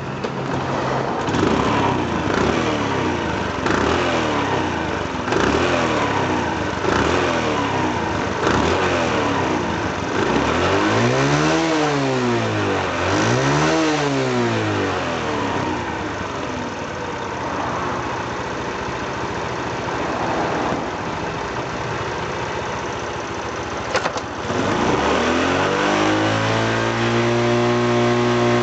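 Honda Super Cub 90's single-cylinder four-stroke engine running and being revved: a series of short throttle blips, then two big rev swells up and back down, before it settles into a steady idle near the end.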